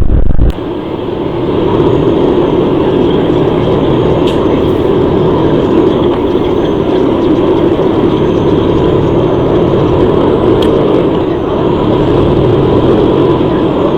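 Steady vehicle driving noise: engine and tyre rumble on the road, with no break or change. About half a second in, a louder low rumble cuts off sharply and the steady noise carries on.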